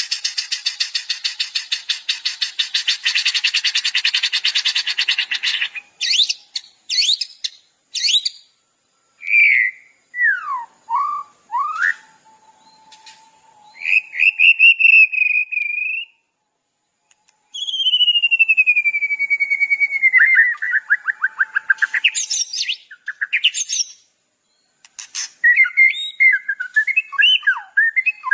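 Songbird calls from a masteran tutoring track: about six seconds of a fast, buzzy trill, then a run of varied whistles, chirps and down-slurred notes, including one long falling whistle.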